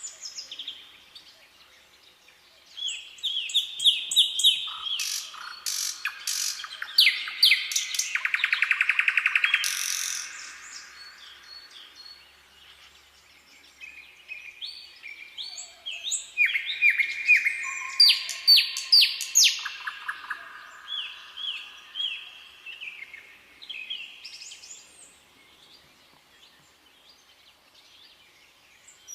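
Several songbirds singing in phrases of short chirps and sliding whistled notes, with a fast trill of rapidly repeated notes about eight seconds in; the song comes in two busy stretches with quieter pauses between.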